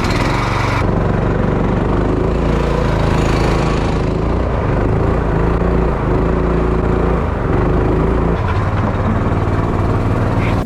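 Jon boat's outboard motor running steadily under way, its pitch shifting about eight seconds in.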